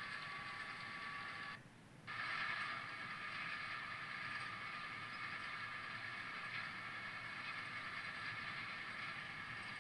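Train running noise: a steady rushing sound carrying a few steady tones. It drops out abruptly for about half a second, about a second and a half in, then resumes.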